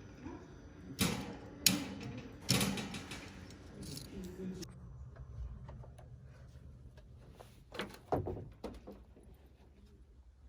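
A few sharp knocks and clatters of things being handled, over a steady background hum that cuts off suddenly about halfway through, then a couple of softer knocks near the end.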